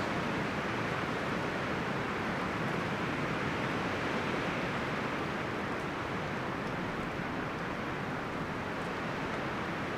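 Wind blowing through forest trees, the leaves and branches rustling in a steady, even rush.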